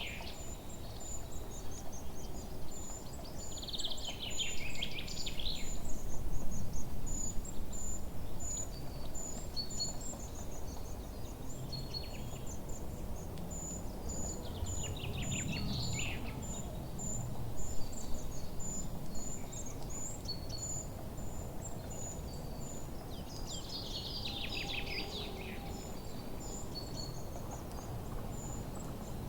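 Forest birds singing: a falling, trilled song phrase comes at the start and again about 4, 15 and 24 seconds in. Under it, a steady high-pitched chirping repeats about twice a second over a low background rumble.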